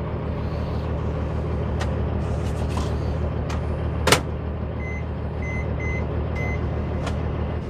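A diesel semi-truck engine idling with a steady low hum. A sharp click comes about four seconds in, followed by four short high beeps.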